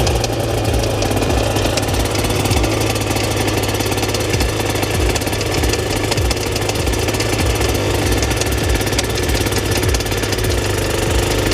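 2000 Aprilia two-stroke motorcycle engine idling steadily with a rapid mechanical clatter. This is the bad engine noise the bike was bought with, which the owner suspects comes from either the crank drive or the gearbox.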